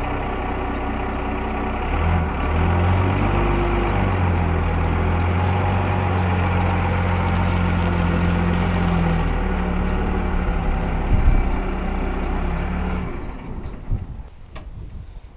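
Pickup truck engine running, picking up revs about two seconds in and holding there while the truck is maneuvered. Near the end the engine sound drops away sharply, and a few sharp clicks follow.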